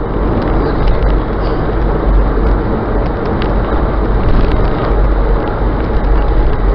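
Loud, steady rumble and rush of a moving vehicle, heaviest in the low end. It starts abruptly at the beginning.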